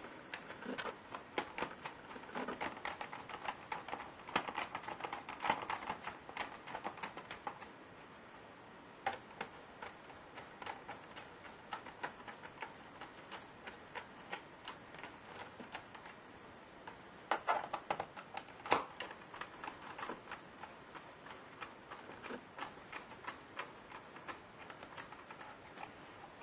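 Irregular sharp clicks and taps on a Lenovo Y570 laptop's plastic body and parts, in dense runs with sparser clicks between.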